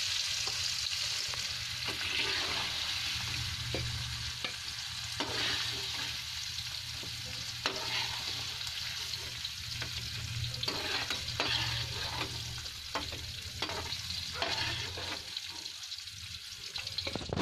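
Paneer cubes frying in hot oil with a steady sizzle, while a perforated spatula scrapes and knocks against the pan in short clicks as the pieces are lifted out.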